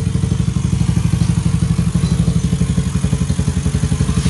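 Small horizontal-cylinder motorcycle engine idling steadily on a test stand, with an even, rapid pulse from its chrome exhaust.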